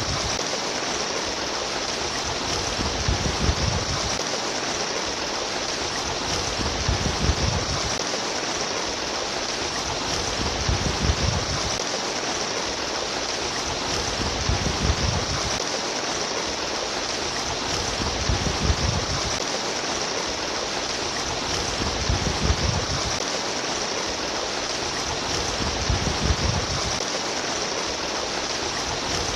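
Babbling stream water running steadily, with a deeper rushing swell that comes back about every four seconds.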